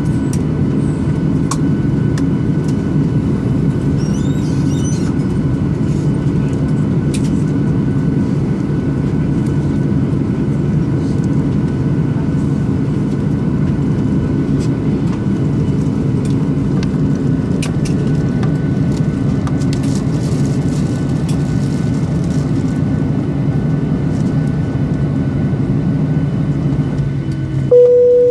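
Steady cabin rumble of a Boeing 737-800's CFM56-7B engines and airframe while the aircraft taxis after landing, with faint scattered clicks and rattles. It cuts off near the end with a brief tone.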